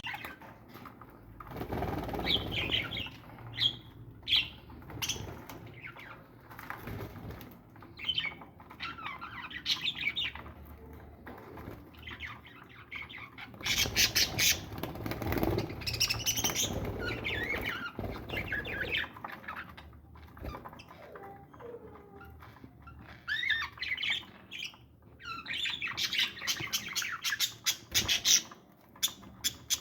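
Captive parrots and parakeets chirping and squawking in irregular bursts, with some wing flapping, busiest about halfway through and again near the end.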